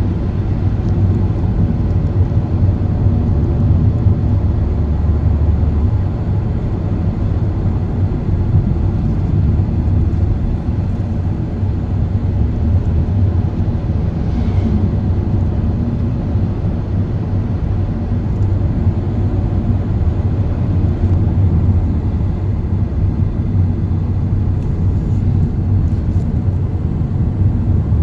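Steady low rumble of a car driving along a road: engine and tyre noise with no let-up.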